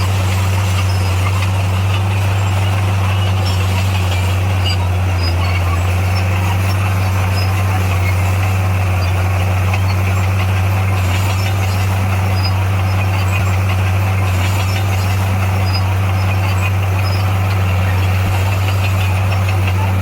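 Bulldozer's diesel engine running steadily with a constant low drone.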